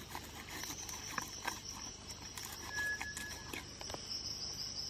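Rainforest insects trilling: a steady, high-pitched pulsing buzz that starts about half a second in. One short whistled note sounds about three seconds in, and faint clicks are scattered throughout.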